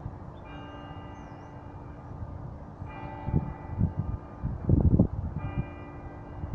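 Church bells of Tewkesbury Abbey ringing for midday, a fresh strike about every two and a half seconds, each ringing on with a long hum. A low, uneven rumble comes and goes in the middle.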